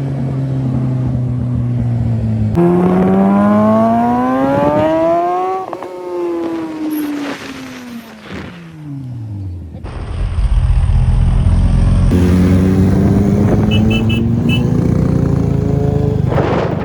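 Kawasaki ZX-10R superbike's inline-four engine, running steadily, then climbing sharply in pitch as it revs and accelerates, falling away again, and climbing once more under hard acceleration near the end.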